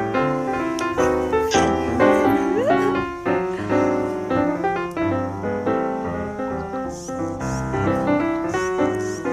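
Piano music with a steady run of notes, and a brief rising glide about two and a half seconds in.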